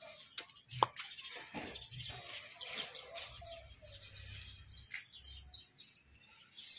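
Small birds chirping in short, high calls throughout, with one sharp click about a second in.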